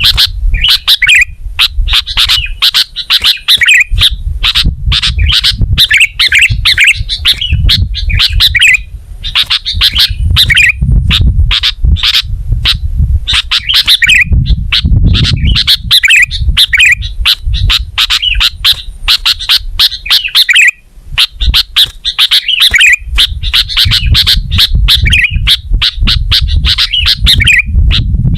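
Sooty-headed bulbul (kutilang) singing in rapid chattering phrases of short chirps and squawks, with brief pauses between phrases. The recording is loud, with a low rumble underneath.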